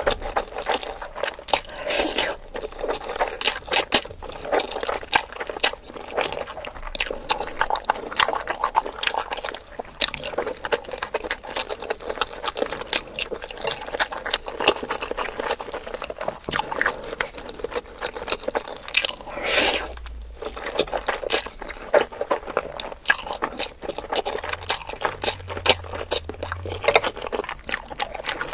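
Close-miked eating sounds: steady chewing with many rapid crunches and wet, squishy mouth noises.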